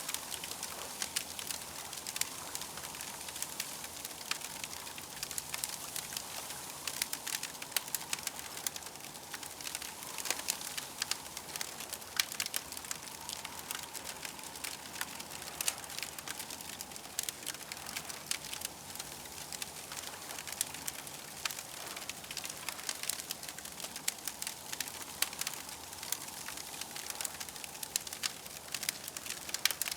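Campfire crackling steadily, with frequent sharp pops and snaps over a soft hiss.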